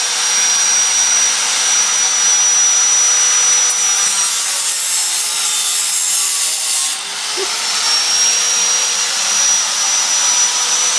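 Angle grinder with a cut-off wheel running at a high steady whine. About four seconds in, the pitch sags and a harsh rasp takes over for about three seconds as the wheel cuts into the old motorcycle exhaust, then the whine climbs back up to full speed.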